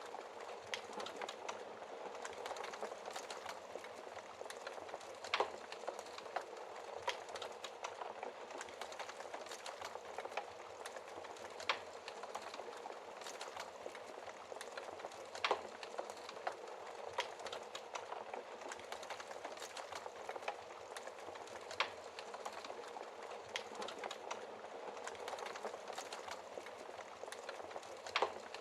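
Wood fire burning in a fireplace: a steady, dense crackle with irregular louder pops from the burning wood every few seconds.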